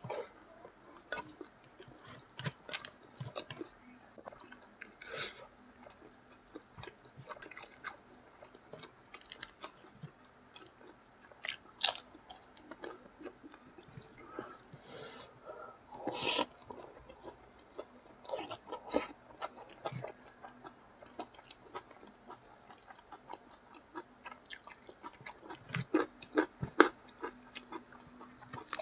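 A person chewing and biting crispy fried food close to the microphone, with irregular sharp crunches among softer chewing.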